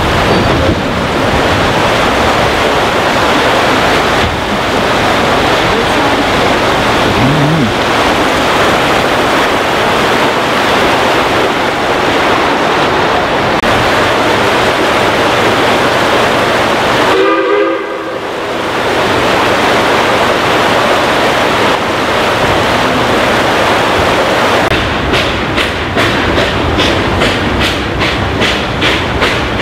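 Steady rumble and rattle of a narrow-gauge steam train heard from an open passenger car, dipping briefly just past the middle. Over the last few seconds a regular beat of clicks comes through, about two or three a second, from the wheels on the rails.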